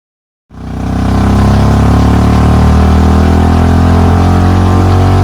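A vehicle engine running steadily close by, cutting in abruptly about half a second in.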